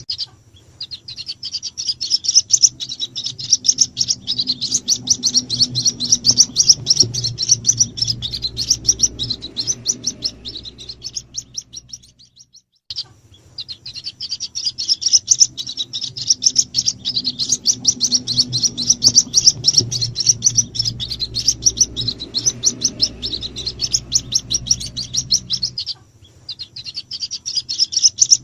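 White-breasted waterhen (ruak-ruak) chicks peeping: a rapid, continuous stream of high chirps, a lure call that draws in the parent birds. The chirping breaks off briefly near the start, about halfway and near the end, with a faint low hum beneath.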